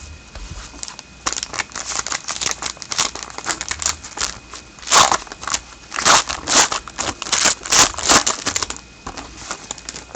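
Trading-card pack wrapper being torn open and crinkled by hand: a dense run of sharp rustles and crackles, loudest in the second half.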